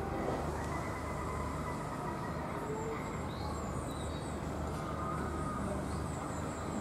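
A steady low mechanical hum, like an engine or machinery running, with a few faint high chirps over it.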